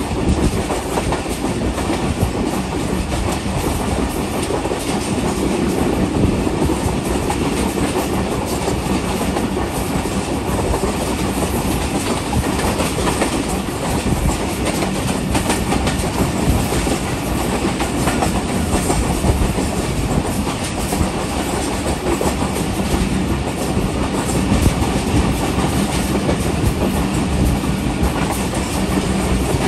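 Passenger train running at speed, its steel wheels clattering steadily over the rail joints, heard from aboard a coach.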